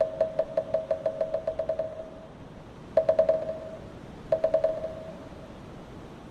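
Moktak, the Buddhist wooden fish, struck in a quickening roll that stops about two seconds in, then two short, fast rolls of a few strikes each. After that, a steady hiss of wind.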